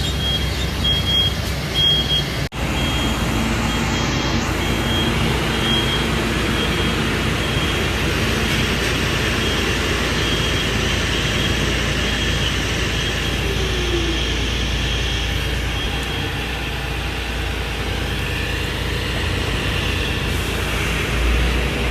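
Heavy truck's diesel engine running steadily while a reversing alarm beeps in a regular repeating pattern, the beeping stopping about three quarters of the way through.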